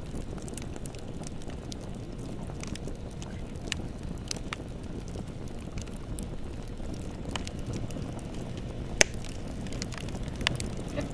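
Bonfire burning with a steady low rumble and scattered sharp crackles and pops of burning wood, the loudest pop about nine seconds in.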